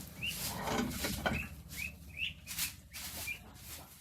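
Poultry chirping: short, high peeps about two a second, over rustling.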